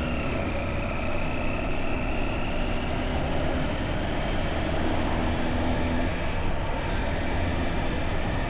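Motorbike engine running steadily while riding, mixed with wind and road noise, with a faint high whine held through most of it.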